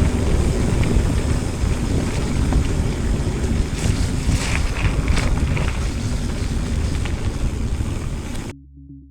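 Wind buffeting the microphone of a camera riding along on a mountain bike: a loud, steady rumble with a few sharp rattles or clicks in the middle. It cuts off suddenly near the end, giving way to quiet electronic music.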